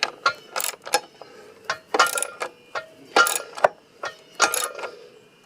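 Socket ratchet clicking in short runs as a bolt is tightened, mixed with light metallic clinks.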